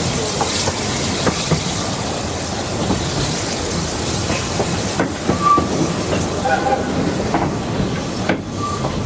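Narrow-gauge Welsh Highland Railway train running: a steady rumble with scattered clicks from the track. A few brief wheel squeals come in the second half.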